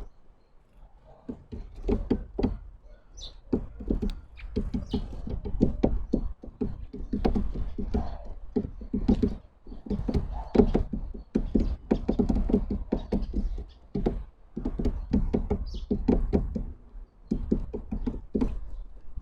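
Birds at a feeder close to the microphone, pecking and hopping to make irregular knocks and taps, with a few short high chirps.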